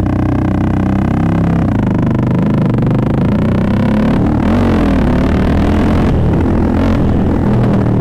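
1976 Honda XL350's single-cylinder four-stroke engine, the 'Thumper', running under way, its pitch rising and falling with the throttle and shifting in steps as gears change, with a rush of noise joining about halfway.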